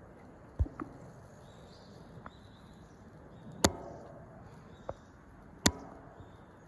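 Sharp knocks over a steady low background noise: three loud ones about half a second, three and a half and five and a half seconds in, with a few fainter ticks between. Faint, short, high thin notes sound now and then in the background.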